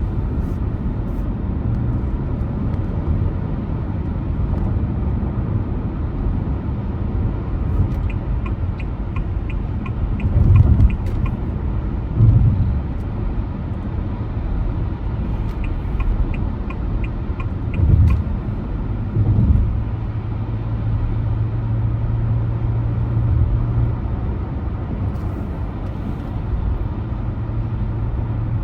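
Car driving on a road: a steady low rumble of road and engine noise, with a few brief low thumps. Two short runs of rapid, faint high ticks come about a third and two thirds of the way in.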